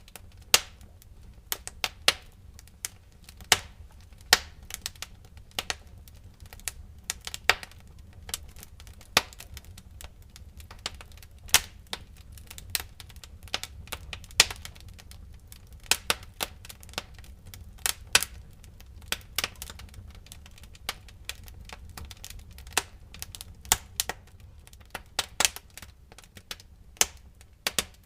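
Wood fire in a fireplace crackling, with irregular sharp pops and snaps several times a second over a faint low rumble.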